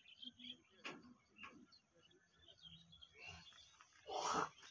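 Faint scattered bird chirps over quiet outdoor background, with a couple of brief clicks about a second in. Near the end comes a short, loud noisy burst.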